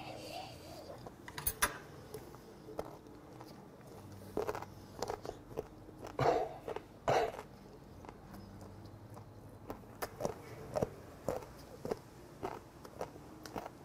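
A person chewing a thin-battered fried fermented skate fritter close to the microphone: irregular soft crunches, clicks and wet mouth sounds, with a few louder breathy bursts near the middle.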